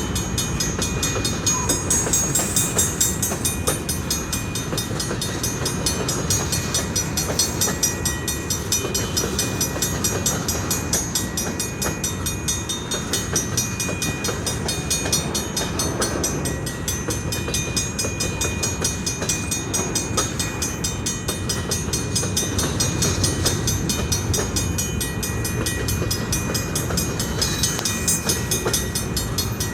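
Train rolling past: a steady, loud rumble of wheels on rail with clatter, and a fine rapid ticking high up.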